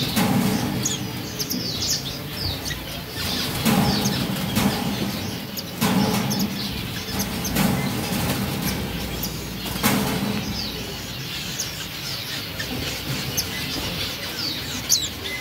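Gouldian finches chirping with many short, high calls, while wings flutter in several louder bursts now and then.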